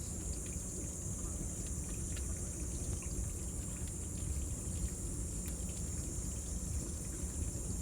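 Cicadas droning steadily at a high pitch over a low, rumbling bonfire with faint scattered crackles.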